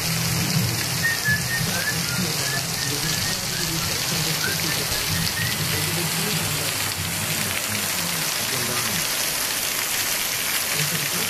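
Heavy downpour pelting onto paved, flooded ground: a loud, steady hiss of rain with no letup.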